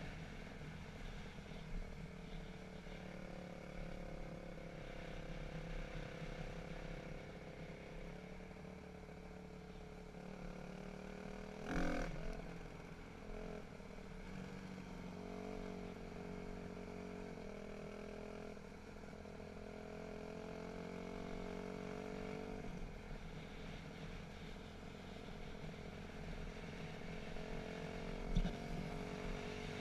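Dirt bike engine running at changing throttle, its pitch stepping up and down again and again. A loud clatter about twelve seconds in, and a short sharp knock near the end.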